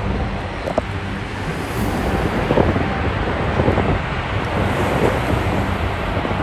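Strong, gusting wind rushing and buffeting the microphone, with a low, steady rumble under it, close to a violent tornado.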